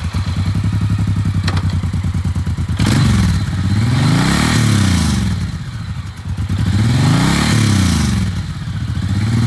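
Suzuki Boulevard M109R's 1800 cc fuel-injected, liquid-cooled V-twin idling, revved twice: about three seconds in and again about six and a half seconds in, each time climbing and dropping back to idle.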